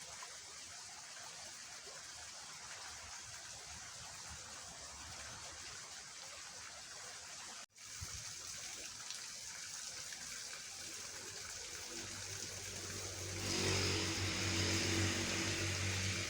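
Rain-swollen drainage ditch water rushing steadily. About three-quarters of the way through, a louder steady drone with a low hum comes in on top and grows.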